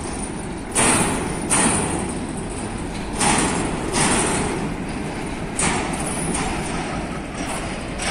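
Empty freight train's wagons rolling past with a steady rumble, their wheels clacking sharply over rail joints in pairs a little under a second apart, with longer gaps between the pairs.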